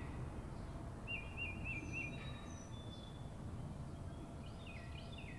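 Small birds chirping over steady low background noise: runs of short downward chirps near the start and again near the end, and a brief warbling trill about a second in.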